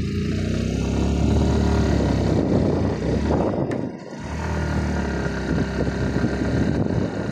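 Motorcycle engine running while riding, with a brief lull in the engine sound about four seconds in before it picks up again.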